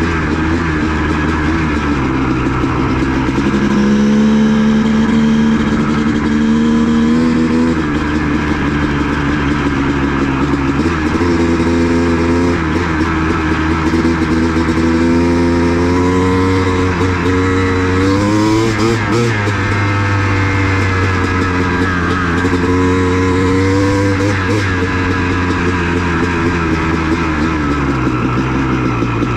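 Honda CR250 two-stroke dirt bike engine running under load while riding. The revs rise and fall over and over with throttle and gear changes, with a sharp climb and drop about two-thirds of the way through.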